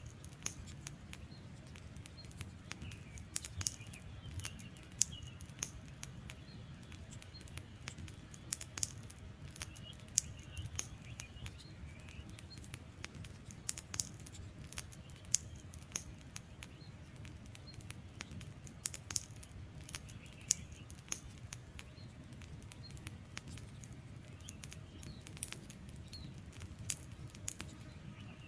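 Wood fire burning with irregular sharp crackles and pops from the logs over a steady low rumble of flame.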